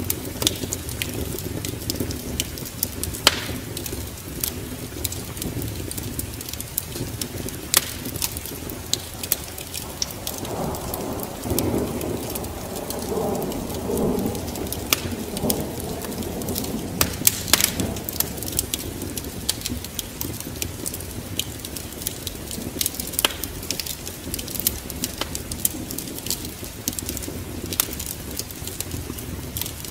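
Steady rain with many sharp crackles and pops of a wood fire, and a low rumble of thunder rolling through from about ten to sixteen seconds in.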